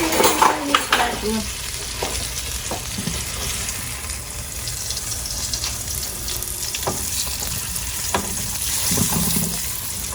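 Flatbread sandwich sizzling as it toasts in a hot pan, its melting cheese oozing out. A burst of utensil clatter in the first second or so, then a few single knocks against the pan.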